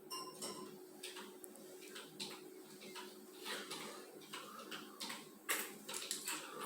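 Light, irregular taps and clicks of wooden popsicle sticks being handled and pressed down onto paper on a table, with a faint steady hum underneath.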